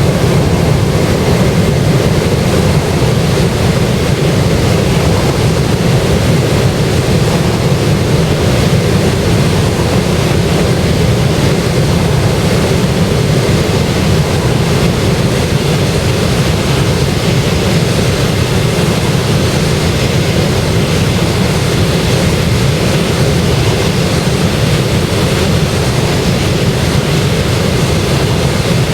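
Boeing 737-800 jet noise: a loud, steady rumble that neither rises nor falls.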